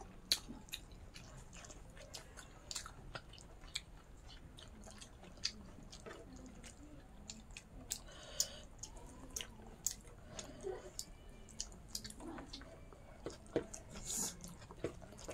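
Close-up mouth sounds of eating a meal of pork and rice: quiet chewing with soft, wet lip smacks and clicks coming irregularly, a few a second.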